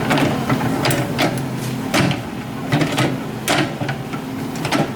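Excavator engine running steadily while metal and stone knock sharply and irregularly, about ten times.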